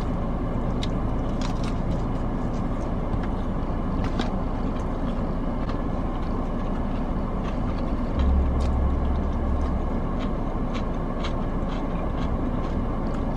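Crunchy chewing of fried chicken tenders: scattered sharp crunches and clicks over a steady low rumble. A deeper rumble swells for about a second and a half past the middle.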